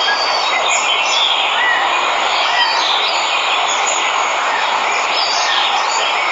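Steady rush of a waterfall, with birds chirping and calling over it.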